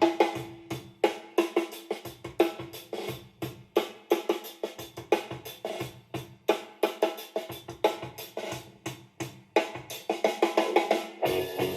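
Recorded music with a busy drum-kit beat, snare and kick hits coming several times a second, played back through a compact Pow Mo Bluetooth speaker; the deep bass is thin.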